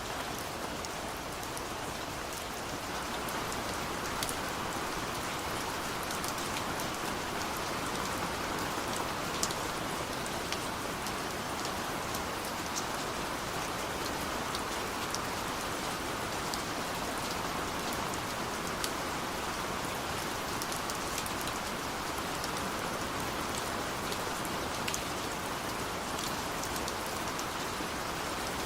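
Steady rain falling: an even hiss with scattered sharper drop ticks, growing slightly heavier about three seconds in.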